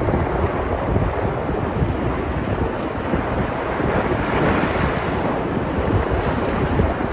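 Sea surf washing and breaking on the shore, a steady rushing noise, with wind buffeting the microphone as a low rumble. A wave swells and washes up more brightly about four seconds in.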